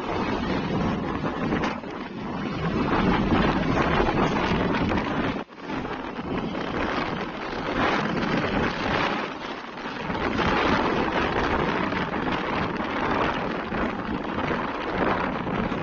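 Wind buffeting the microphone over road noise from heavy truck traffic, a rushing, fluctuating noise with a brief drop-out about five seconds in.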